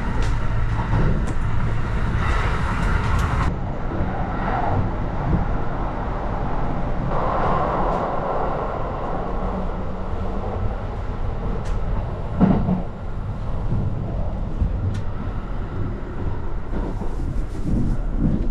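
Running noise inside a Kintetsu Hinotori limited express car: a steady low rumble from the moving train, with a few light clicks and knocks.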